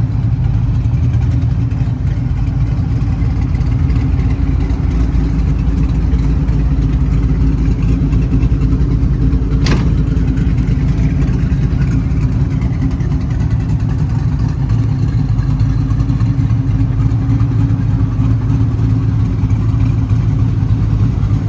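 Twin-turbo LS3 V8 idling steadily, with a single sharp click about ten seconds in.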